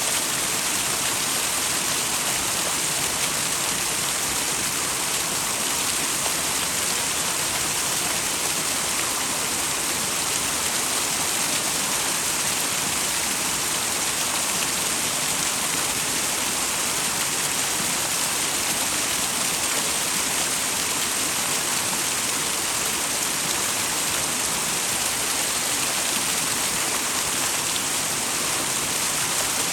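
Small waterfall: water pouring steadily over rocks into a mountain stream, a constant bright hiss with no change.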